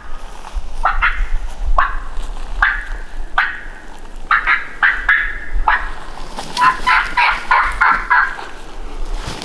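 Wild turkey calling: single short notes about a second apart, then a quicker run of about ten notes in the last third.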